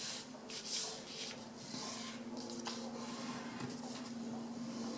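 A sheet of paper being folded and its crease rubbed flat by fingers, with several short rustles during the first couple of seconds.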